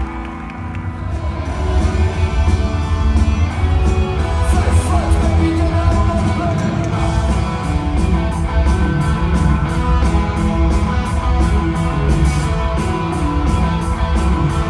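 Live rock band playing loudly: electric guitar, drums with a steady beat, and singing.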